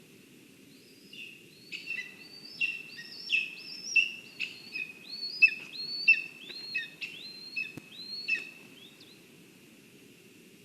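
A bird calling a loud series of about a dozen sharp, inflected notes, roughly one and a half a second, which stops about nine seconds in; a steady low hiss lies under it.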